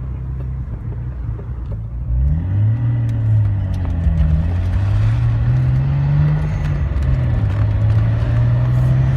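Nissan 300ZX's twin-turbo 3.0 L V6 (VG30DETT) accelerating. About two seconds in it gets louder and its pitch shifts, then the note climbs, dips briefly and climbs again. The car is pulling at zero boost.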